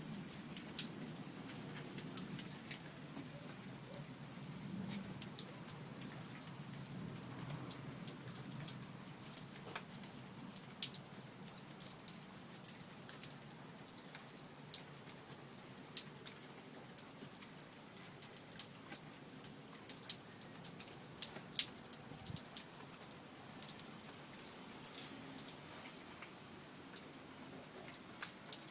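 Steady rain, with many individual drops landing close by as sharp ticks. A low thunder rumble dies away over the first several seconds.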